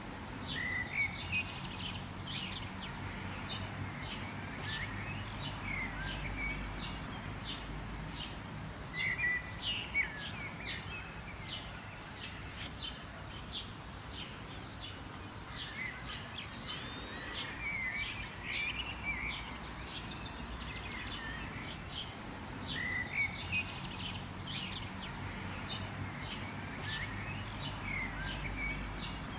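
Several birds chirping and calling: many quick, sharp notes and a few short sliding whistles, over a steady low background rumble.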